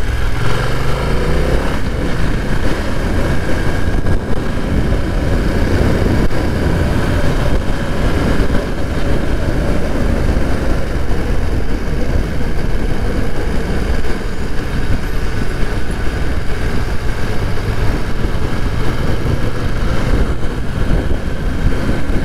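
BMW F900R motorcycle's parallel-twin engine running while riding, its pitch rising over the first second or two as it accelerates, then holding steady.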